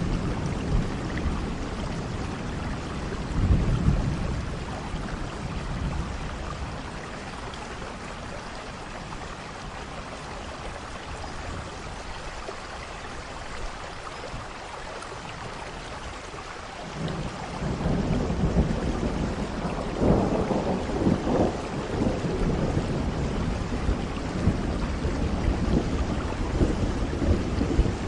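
Steady rain with thunder rumbling: a low rumble a few seconds in, a quieter stretch of rain alone, then thunder rolling again from a little past halfway, loudest a few seconds later.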